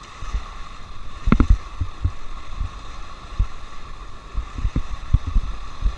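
Rushing river water around an inflatable raft, with wind buffeting the microphone in uneven low rumbles and a thump about one and a half seconds in.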